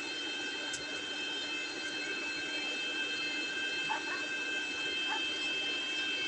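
Stick (arc) welding on thin sheet steel: the arc burns steadily with a continuous hiss, and a few small crackles come through.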